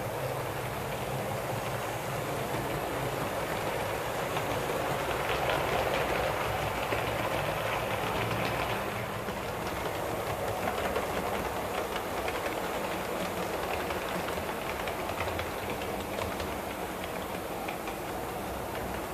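Model Class 35 Hymek diesel locomotive running, with its sound-fitted diesel engine hum steady and faint wheel ticks over the rail joints; the sound swells a little a few seconds in, then settles.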